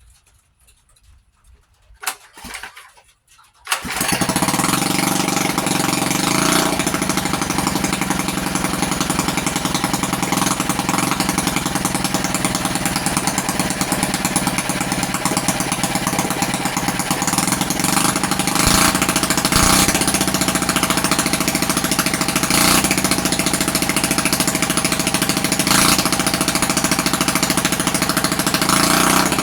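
Mini chopper motorcycle's small engine catching about four seconds in, after a brief knock near two seconds, then running steadily.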